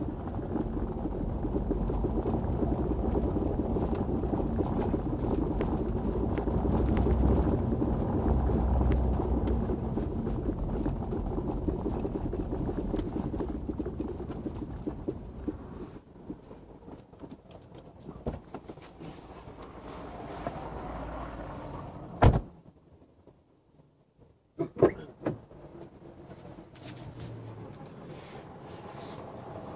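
Volkswagen Golf Mk7 driving over cobblestones: a dense rumble of tyres on stone shot through with short knocks from the rear suspension, knocking that the owner is recording as a fault. The rumble fades after about 16 s, then one loud sharp thump comes a little past 22 s, and two sharp clicks follow a few seconds later.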